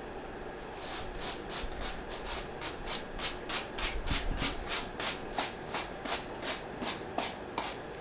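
Soft-bristle brush stroking across a suede sneaker upper in one direction, in quick even strokes about three a second, sweeping off suede-eraser crumbs.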